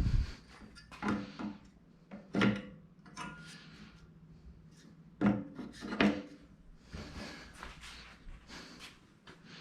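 Parts of a cutting plotter being handled and fitted: a series of knocks and clunks, then a few seconds of scraping and rubbing as parts slide against the frame.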